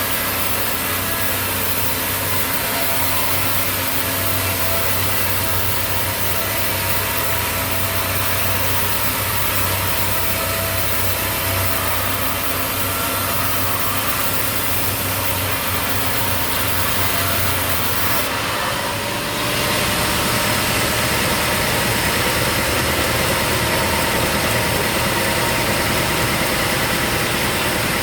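Sawmill machinery with its engine running steadily, the sound briefly changing about two-thirds of the way through before settling again.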